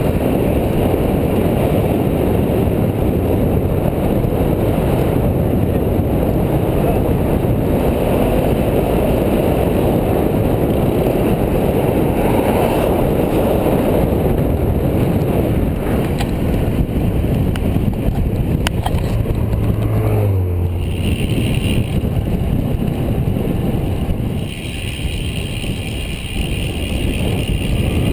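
Wind rushing over the microphone of a bicycle-mounted camera while riding at speed, a steady loud buffeting with road noise, with a brief low hum about twenty seconds in.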